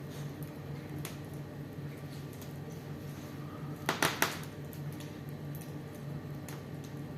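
Fireplace fire crackling, with faint scattered snaps over a low steady hum and a quick cluster of loud pops about four seconds in.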